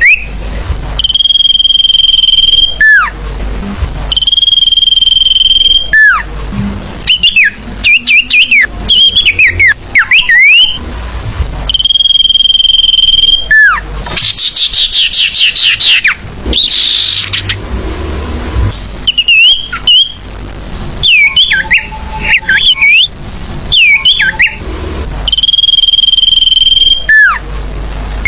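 Sirfu bird song played as a lure call, loud: long steady whistles of about two seconds, each ending in a falling glide, repeated four times between quick, varied chirping phrases and a fast trill.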